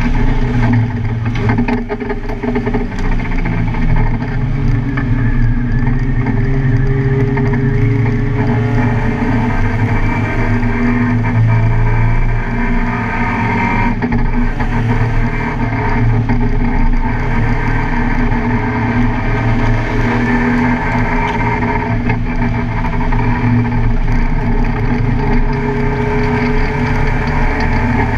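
Car engine running at speed on a race track, its pitch rising and falling continuously as the revs change through shifts and corners.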